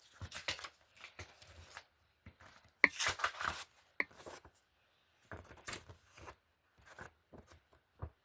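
Film and TV disc cases being handled and shuffled: irregular clicks and rustles, with the loudest cluster about three seconds in.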